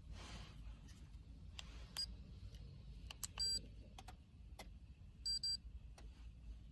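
Electronic beeps from a Carmate remote engine starter, signalling a remote start: a short double beep about three seconds in and another about five seconds in, among scattered faint clicks.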